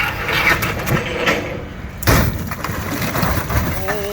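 A gutted scrap car dropped from a forklift high up, crashing down: a sudden crunch and cracking at the start, then a heavier impact about two seconds in, followed by rattling debris.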